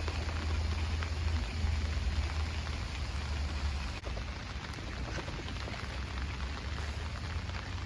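Pouring rain falling onto a lake's surface, a steady dense hiss of drops, with a low rumble under it that fades out about halfway through.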